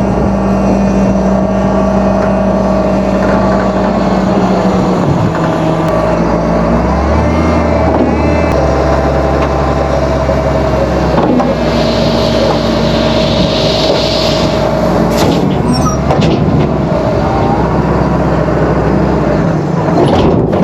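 Tractor engine running steadily while driving, its note shifting a few times, with a hiss lasting a few seconds about twelve seconds in.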